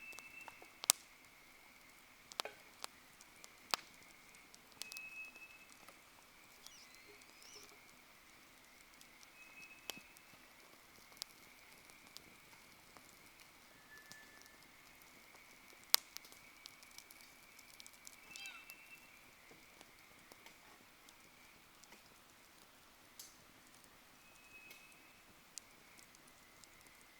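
Wood campfire crackling faintly, with sharp pops and snaps at irregular intervals, the loudest about a second in and near the middle. A steady thin high tone and occasional short high chirps sound behind it.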